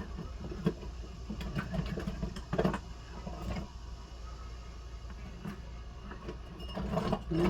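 Small hand tools clicking and clattering as they are rummaged through on a workbench, over a steady low hum.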